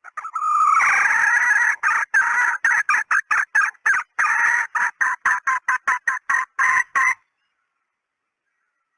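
Female red junglefowl calling: one drawn-out note for about two seconds, then a run of short clucking notes, about three a second, that stops about seven seconds in. It is a hen call of the kind played as a lure to draw in wild junglefowl.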